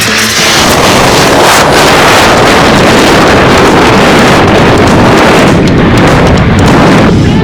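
Loud, steady rushing of a car wash tunnel's equipment, water spray and air blasting against the car, starting a moment in and easing briefly near the end.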